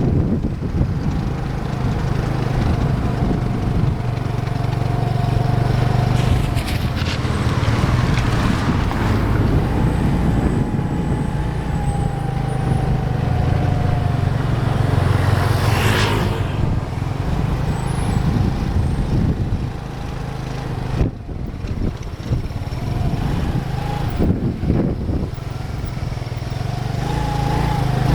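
Motor vehicle traffic: engines running steadily with vehicles passing, and a brief sharp hiss about halfway through.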